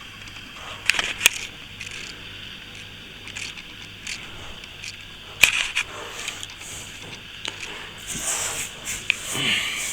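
Hand plastering tools working plaster on a wall angle: a few sharp knocks and clicks (two about a second in, a louder one around the middle), and a rougher scraping stretch near the end.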